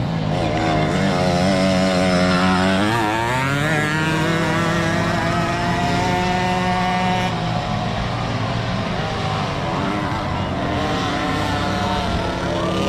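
Motocross dirt bike engines running and revving, their pitch rising and falling with the throttle, with a sharp rise in revs around three to four seconds in.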